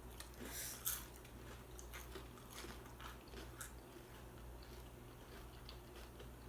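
Close-up crunching and chewing of chips with salsa: a louder crunch about a second in, then quieter wet chewing clicks over a low steady hum.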